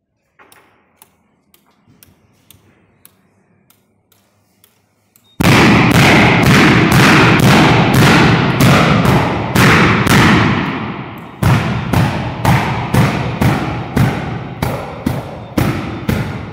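Propane bird scarer cannon: faint ticking about twice a second, then about five seconds in a sudden run of loud bangs, about two a second, that runs on and thins out near the end.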